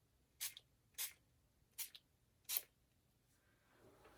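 Four short spritzes from a pump spray bottle of Distress spray stain, about half a second to a second apart.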